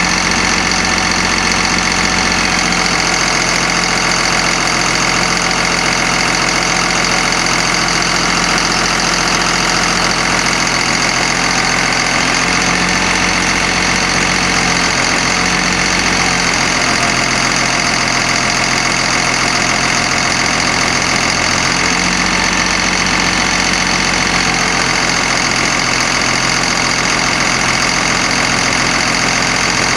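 Caterpillar diesel engine of a 1991 GMC Topkick bucket truck running steadily.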